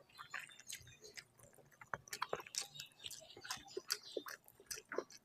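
Close-miked, wet chewing and lip-smacking of a mouthful of rice and curry: a quick, irregular run of sharp mouth clicks.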